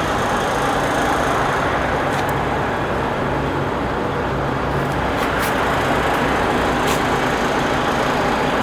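DAF CF85 truck's diesel engine running steadily at a constant speed, with a few faint clicks about two, five and seven seconds in.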